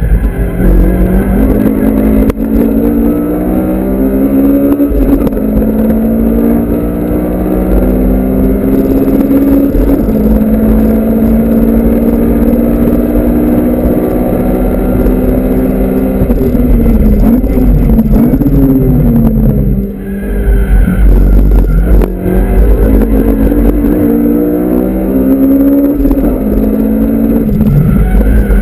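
Honda Civic Type R FD2's 2.0-litre four-cylinder engine heard from inside the cabin under hard driving. It pulls up in pitch and drops at each gear change, eases off briefly about two-thirds of the way through, then pulls hard again near the end.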